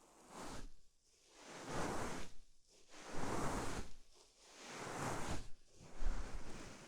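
Knit cardigan fabric stroking and pressing over a microphone's ears, a swishing rustle that swells and fades about five times with short gaps in between.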